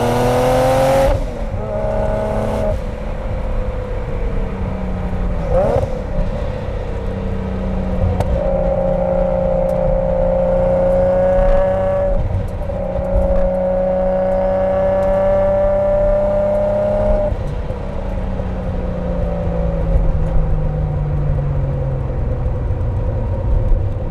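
Single-turbo Mk4 Toyota Supra's engine and Blitz Nur Spec exhaust while driving, heard from inside the car. The engine pitch climbs, then drops sharply about a second in as the driver shifts up, climbs again briefly, and then holds a steady, slowly rising pitch in two long pulls with a short break near the middle. The pitch falls away over the last few seconds as the car slows.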